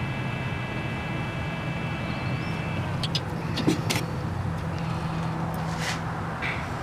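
Mercedes ML320 electronics-box cooling fan (blower motor) running steadily, with a low hum under its whir. It is powered directly through a jumper cable across relay 19, as a test that the new fan works. A few light clicks come in the second half.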